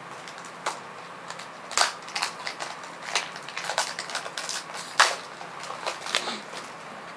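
Pokémon trading cards and their foil booster pack being handled: a string of irregular sharp snaps and crinkles, loudest about two seconds in and again about five seconds in.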